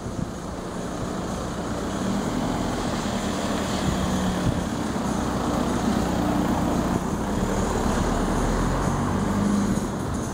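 A motor vehicle's engine running with a steady low hum, a little louder from about a second and a half in.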